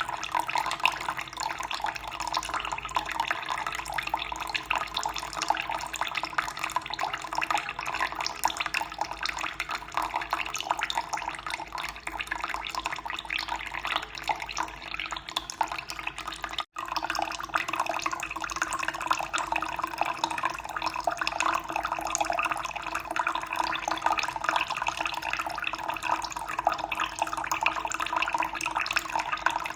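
Running water, a steady trickling and splashing flow, with a split-second break a little past halfway.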